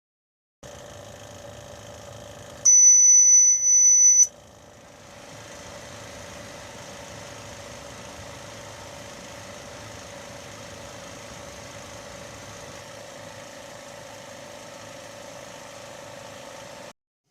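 Steady hum of a BGA rework station's fan and heater running, broken about three seconds in by a loud, high electronic beep lasting about a second and a half.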